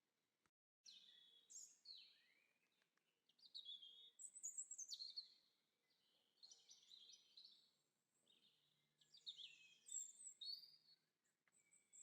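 Birdsong: small birds chirping and trilling in quick high phrases that come and go, faint throughout.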